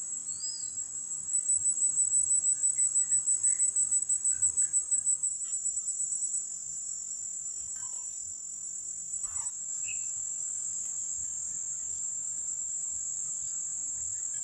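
Insects buzzing in a steady, high-pitched chorus. The sound swells into a rapid pulsing trill between about one and five seconds in, then settles back to a steady drone. A few faint, brief chirps are heard in the background.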